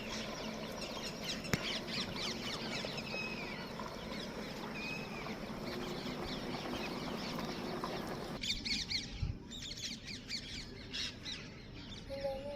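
Many birds chirping and squawking over a steady outdoor background, with one sharp click about a second and a half in; the background haze drops suddenly near the end while scattered chirps continue.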